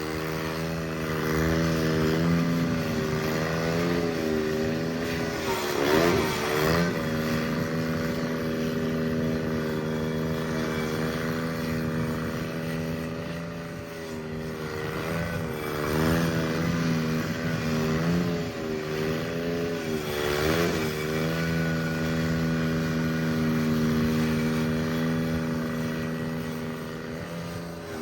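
Cub Cadet 782 garden tractor engine running at a steady speed, its pitch wavering briefly about six seconds in and again around sixteen and twenty seconds.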